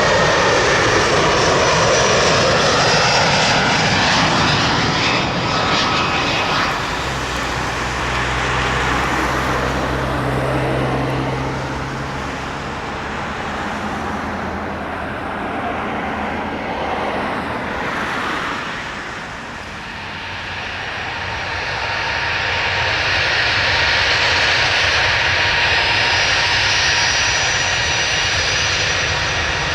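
Airliner engines running, a loud steady rush that eases off about twenty seconds in and then builds again.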